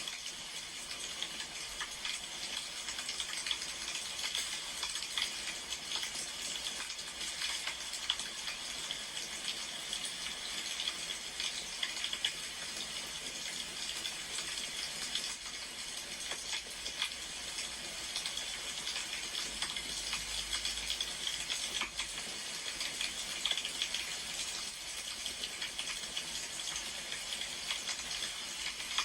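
Burning firewood crackling: a steady hiss with quick, irregular pops and snaps throughout.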